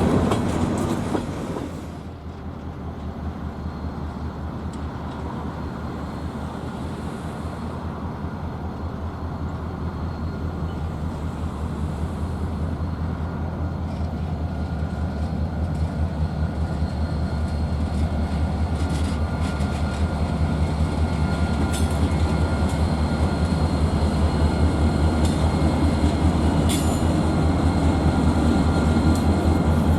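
Freight train's diesel locomotive rumbling with a low throb that grows steadily louder as it approaches, with a few sharp clicks from the wheels near the end. The sound drops abruptly about two seconds in, then builds again.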